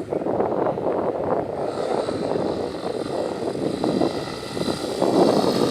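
Yamaha XTZ 250 Lander motorcycle's single-cylinder engine running, its level rising and falling unevenly.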